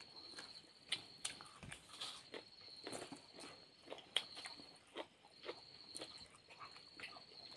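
Close-up chewing, lip-smacking and soft crunches from eating with the fingers, heard as scattered sharp clicks. Behind them insects trill steadily in high-pitched bursts that come and go every second or so.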